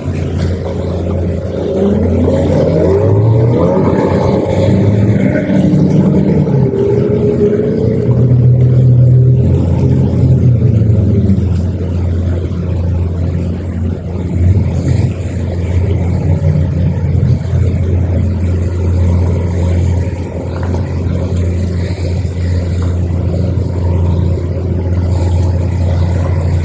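Twin outboard motors of a patrol speedboat running under way. Their pitch rises and falls through roughly the first ten seconds, then holds steadier.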